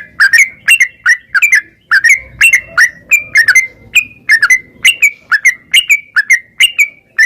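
Yellow-vented bulbul (trucukan) singing loudly in a fast, unbroken run of short, bubbly, bending notes, about two or three a second: the rapid 'ropel' song.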